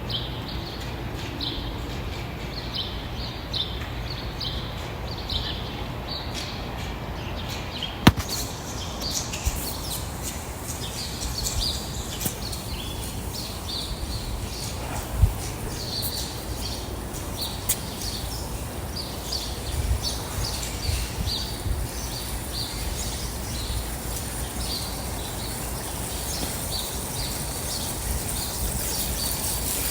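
Small birds chirping in short, rapidly repeated notes over a steady outdoor background hiss, with a sharp click about eight seconds in and a soft thump halfway through.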